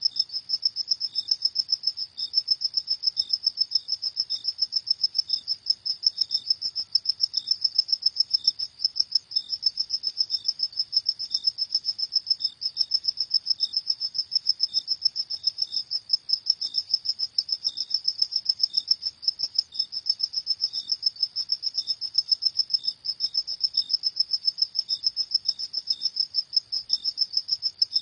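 Crickets chirping steadily: a high-pitched, rapid pulsing trill, about five pulses a second, that goes on without a break.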